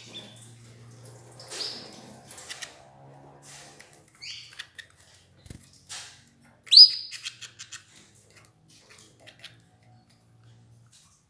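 Canaries giving a few short chirps, the loudest about seven seconds in, among light clicking and rustling from the birds feeding on escarole.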